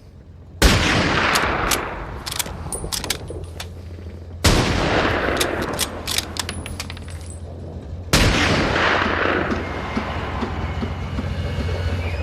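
Film battle gunfire: three heavy bursts of shooting about four seconds apart. Each opens with a loud blast and runs on with rapid sharp shots over a long rumbling echo.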